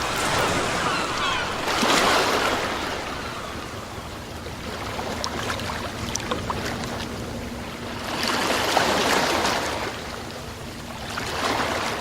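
Sea waves washing in, swelling louder about two seconds in, again around nine seconds and once more near the end, with a crackling hiss of water between the swells.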